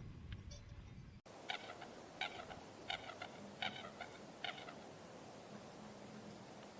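A small animal calling, five short high calls in a row about two-thirds of a second apart, starting just after an abrupt cut.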